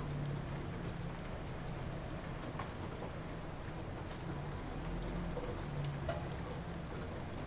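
Light rain falling steadily, with scattered single drops ticking, over a low steady rumble.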